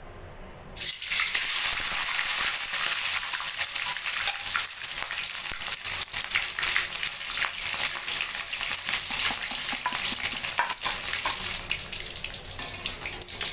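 Boiled chicken pieces going into hot oil in a wok: a sudden sizzle starts about a second in and keeps up as they deep-fry, with the clicks and scrapes of a metal spatula turning them.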